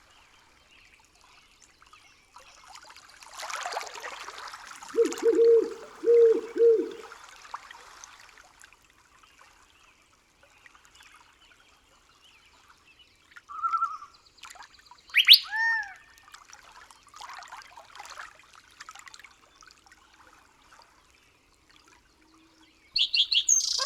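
Birds calling against a quiet forest background: three low, arched calls in quick succession a few seconds in, following a brief rush of noise like trickling or splashing water, then a sharp whistled sweep and a couple of higher arched calls about midway, with fainter scattered chirps after.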